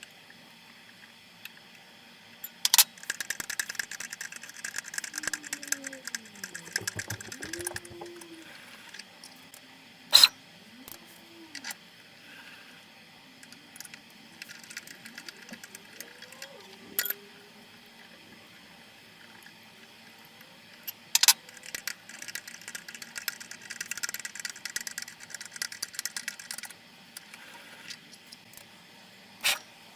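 Hand tapping #4-40 threads in aluminium plate on a Sieg X2 mini-mill: two stretches of rapid rattling clicks from the tap and tap wrench, several single sharp clicks, and short whines that rise and fall as the mill's CNC stepper motors move the table to the next hole.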